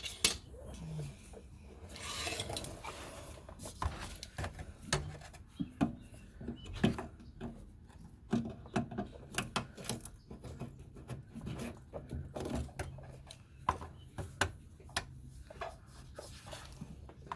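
Hand work on the fuel filler neck's hoses: irregular clicks, taps and knocks of tools and metal parts, with stretches of scraping and rubbing.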